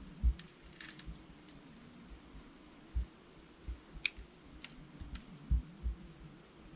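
Wood fire of burning logs in a fireplace crackling, with scattered sharp pops, the loudest about four seconds in, and a few soft low thuds among them.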